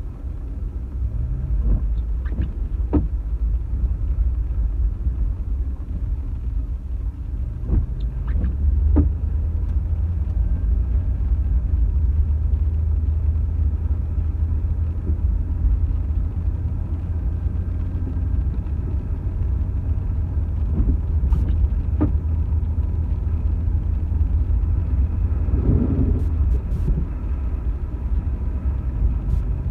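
Steady low road rumble of a car being driven, as heard from inside the cabin, with a few faint scattered clicks.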